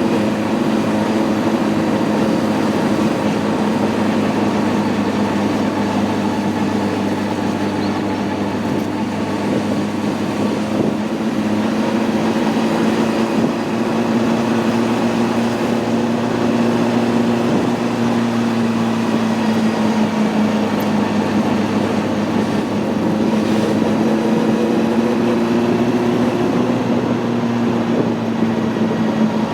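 Honda CB600F Hornet's inline-four engine running at a steady cruise, its pitch drifting gently up and down with small throttle changes, over a steady rush of wind and road noise.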